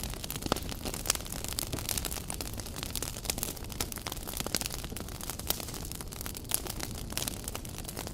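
Wood campfire crackling: irregular sharp pops and snaps of burning wood over a steady low noise from the fire.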